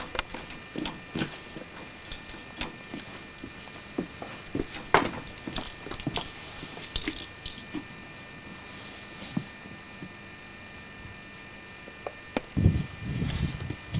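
Scattered wooden knocks and creaks from someone moving about inside a Mark 1 railway coach, with a muffled low rumble near the end.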